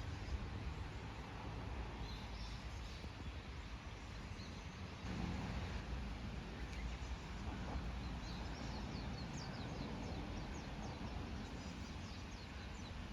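Forest ambience: the steady rush of a small stream, with birds chirping high over it and a quick run of chirps toward the end.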